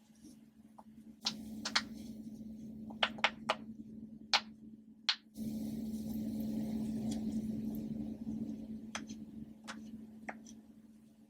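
Push-pop popper toys being pressed: a quick series of sharp pops and clicks, then a few seconds of steady rustling handling noise, then a few more scattered pops near the end, over a faint steady hum.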